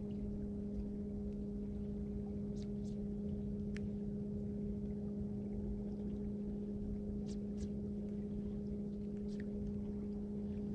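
Boat's electric trolling motor running with a steady, even hum over a low rumble, with a few faint ticks.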